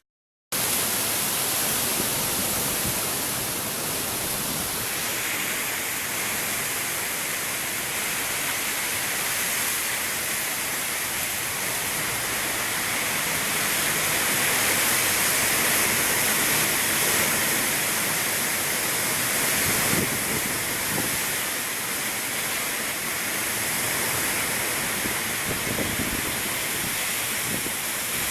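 Heavy rain and strong wind of a thunderstorm gust front, a loud steady rushing hiss that swells a little around the middle.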